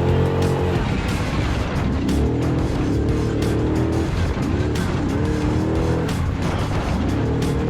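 Off-road race truck engine revving hard, its pitch climbing and dropping several times as it runs through the gears, mixed with background music.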